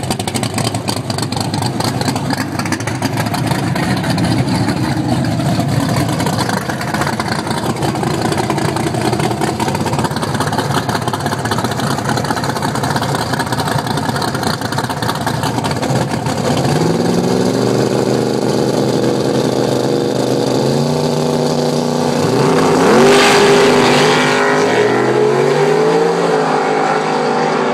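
Drag-racing car engine idling with a rough, choppy rumble, then revving up and accelerating away. Its pitch climbs in several steps in the second half, loudest a little before the end.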